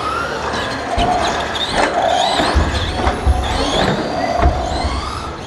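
Several radio-controlled racing trucks accelerating off the start, their motors whining and gliding up and down in pitch over one another, with a few low thuds mixed in.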